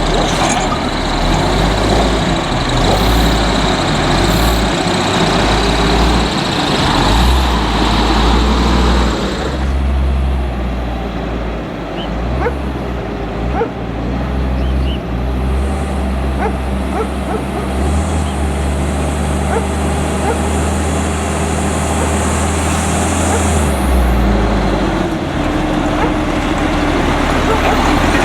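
Diesel engine of an Autocar front-load garbage truck running. It is loud and busy for the first third, then settles lower and steadier, with a few sharp knocks in the middle and a long hiss past the middle.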